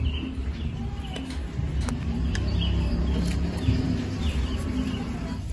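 A few faint bird chirps over a steady low rumble, with an occasional soft click.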